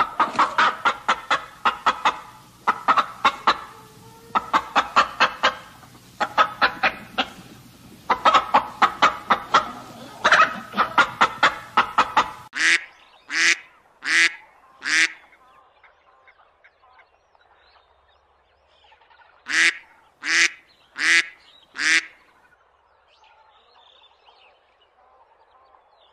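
Birds calling, likely geese or other fowl: rapid bouts of repeated pitched calls. These give way suddenly to two groups of four loud, evenly spaced single calls, several seconds apart.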